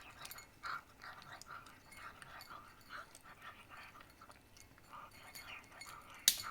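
Cat eating, with soft, irregular chewing sounds. A sharp click near the end is the loudest sound.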